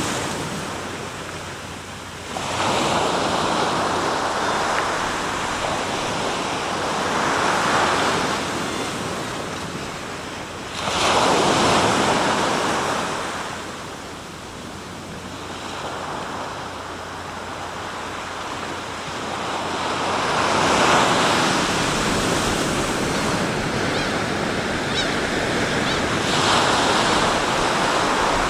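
Sea waves breaking and washing ashore one after another: a steady wash of surf that swells with each breaking wave, about five times, then falls away.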